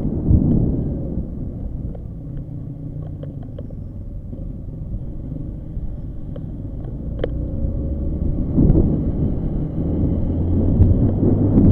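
Motorcycle engine running with a low rumble. It eases off after the first second or so, then grows louder again from about eight seconds in.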